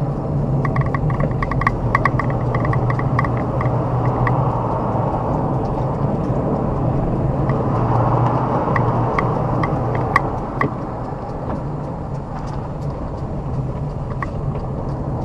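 A car driving, with steady engine and road rumble. A quick run of light ticks comes in the first few seconds, and a few scattered ticks follow later.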